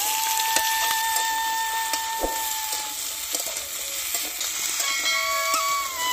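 Brinjal and potato pieces sizzling in hot oil in an iron kadai as they are stirred with a metal spatula, with scattered clicks and scrapes of the spatula against the pan.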